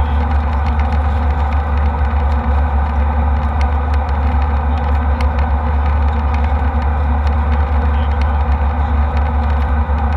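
Airliner cabin noise in flight: a loud, steady drone of engines and airflow with a deep low hum, unchanging throughout, with a few faint ticks.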